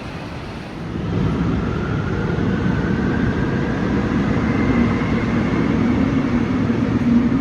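Seoul Subway Line 5 electric train pulling away from the platform: a rumble that grows about a second in, with a motor whine rising steadily in pitch as the train accelerates.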